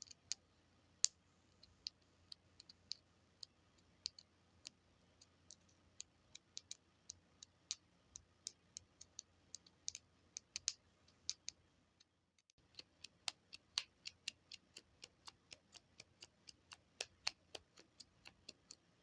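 Small buttons being pressed and clicked over and over: sharp, light clicks at an irregular pace of a few per second, with a brief stop about twelve seconds in.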